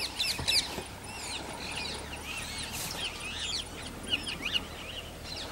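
Birds chirping in many quick, short calls over a steady low rumble.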